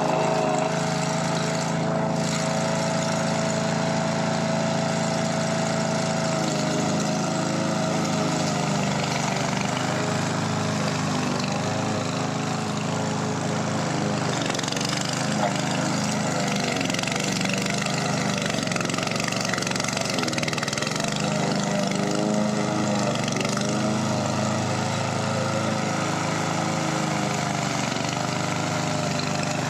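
Small petrol engine of a grass-cutting machine running steadily while mowing, its pitch dipping briefly a few times.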